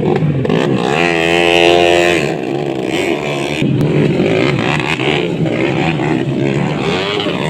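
Engines of modified underbone motorcycles racing, revving up and down, with one engine climbing steadily in pitch about a second in.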